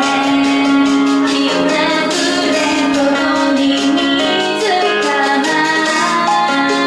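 A woman singing a song live, holding long notes over steady instrumental accompaniment.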